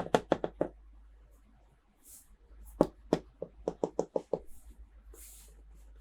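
Hard plastic toy pieces being handled in a toy unboxing, making sharp clicks and knocks: a quick run of about five near the start and another run of about eight from about three seconds in. Short rustles of packaging fall between the runs.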